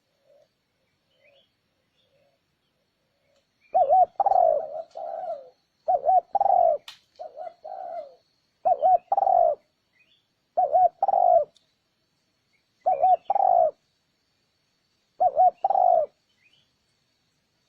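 Spotted dove cooing: after a few soft notes, six repeated coo phrases about two seconds apart, each a quick double note followed by a longer drawn-out coo. This is the male's call used as a lure to draw in wild doves.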